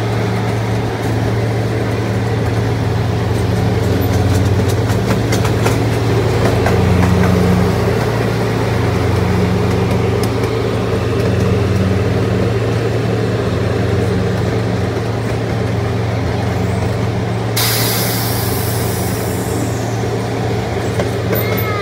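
Miniature passenger train's engine running steadily with a low drone as the train rolls along, with scattered light clicks and a burst of hiss lasting a couple of seconds near the end.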